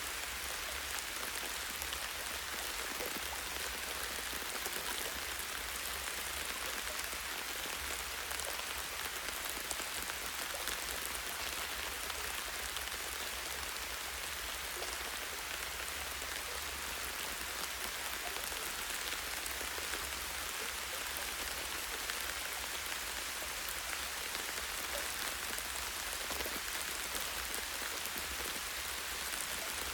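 Steady light rain pattering on leaves and branches, a continuous hiss of many fine drops.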